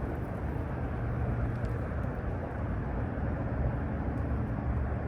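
A steady low motor drone with an even hum and no sudden sounds.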